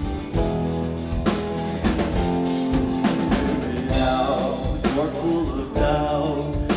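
Live rock band playing a song: steady drum kit beat with bass drum and snare hits under sustained guitar and bass chords.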